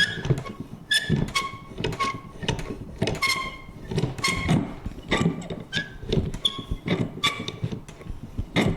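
Vintage paper punch worked over and over: sharp clicks about two a second, many with a short high creak or squeak from the mechanism.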